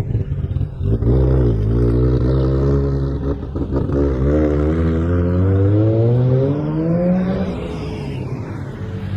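Car engine blipping once, then pulling away under acceleration, its pitch climbing steadily for about three seconds before it eases off and fades.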